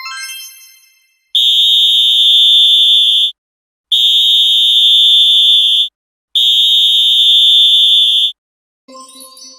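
A chime rings and fades at the start, then a high-pitched electronic alarm buzzer sounds three long blasts of about two seconds each, with short gaps between them.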